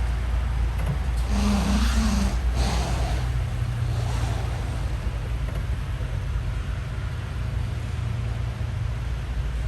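Bentley Continental GTC Speed's 6.0-litre twin-turbo W12 engine idling with a steady low hum. It briefly gets louder and noisier between about one and two and a half seconds in.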